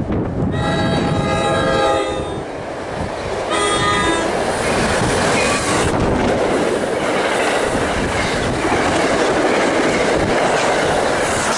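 A train horn sounds a long blast of about two seconds, then a short one about three and a half seconds in. The train then passes close by, its wheels and cars on the rails making a loud steady rush.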